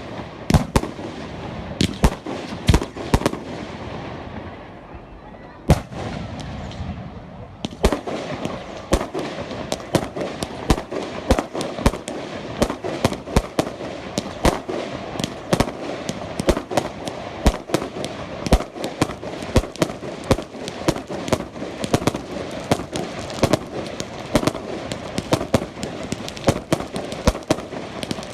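Fireworks going off in a rapid series of sharp, gunshot-like bangs. There is a short lull about four seconds in, then a dense run of several bangs a second.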